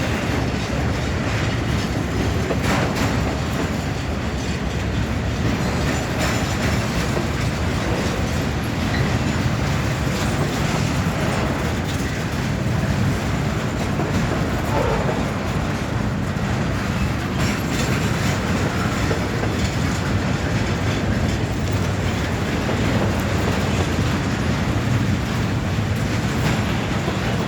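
Freight train cars rolling past at speed: a steady rumble with the repeated clickety-clack of wheels over rail joints.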